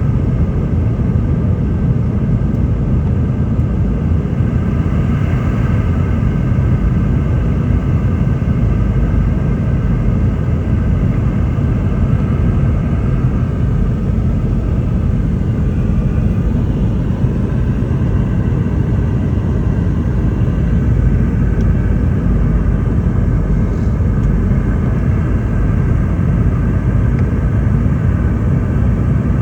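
Steady cabin rumble inside a Boeing 717-200 airliner, the noise of its rear-mounted Rolls-Royce BR715 engines and airflow heard from a seat, with a faint steady hum above the low rumble.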